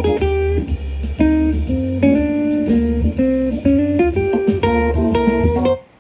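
Blues-style guitar music with a heavy bass line playing through a portable Bluetooth speaker for a sound test, a run of plucked notes that cuts off suddenly near the end.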